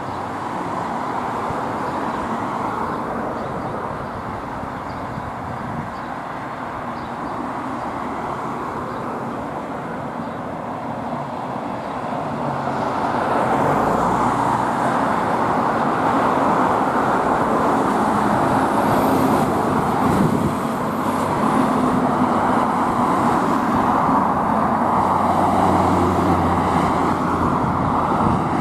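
Road traffic passing at the roadside: a steady tyre and engine noise that grows louder about halfway through, as a vehicle with a low engine drone comes close and goes by.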